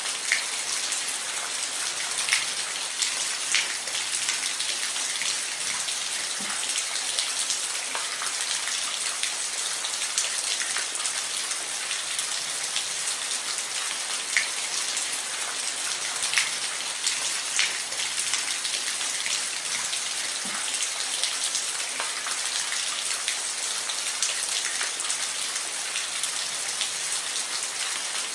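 Steady rain falling on a roof: an even hiss of rain with separate drops ticking sharply at irregular moments.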